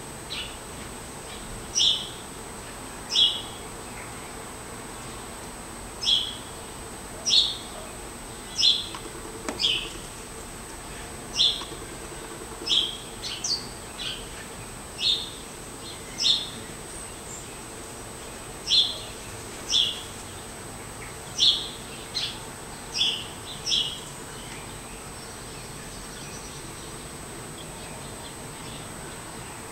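A bird gives short, sharp high calls, about one every second or so, some in quick pairs, then falls silent for the last few seconds.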